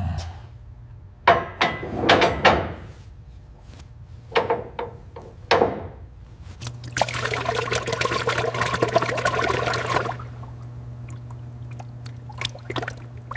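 Several sharp knocks and clinks, then liquid pouring and splashing for about three seconds, over a steady low hum.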